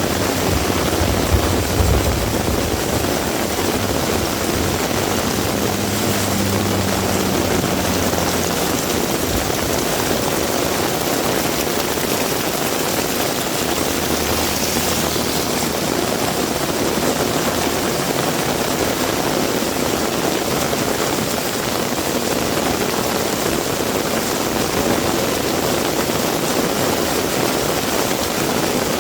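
Heavy rain falling steadily, with a motor vehicle's engine humming low underneath for the first eight or nine seconds, then fading, and briefly again about halfway through.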